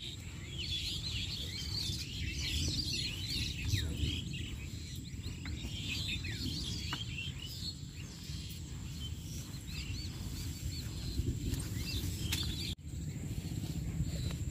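Several small birds chirping and calling in quick, overlapping short notes, over a low rumble of wind on the microphone and a thin steady high tone. The sound drops out for a moment near the end.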